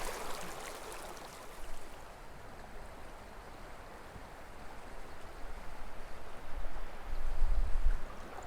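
Small mountain creek running over rocks, a steady rushing that is strongest in the first couple of seconds. A low rumble builds in the second half and is loudest near the end.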